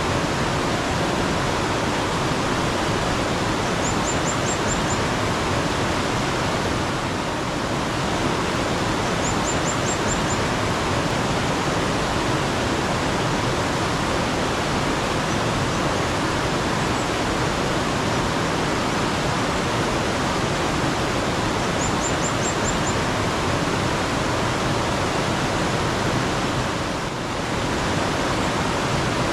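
Water rushing steadily over rocks in a mountain stream. Three times, a bird gives a quick run of about five high chirps.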